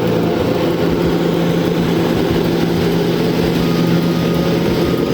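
A heavy vehicle's engine running steadily, a loud even drone with a low rumble.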